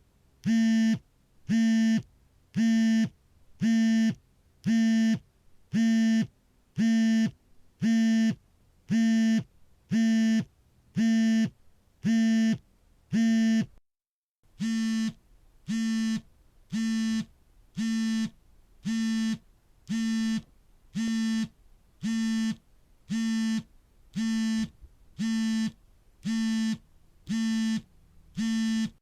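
Smartphone vibrating for an incoming call: a steady, pitched buzz of the vibration motor in even pulses, about three every two seconds, with a brief break about halfway through.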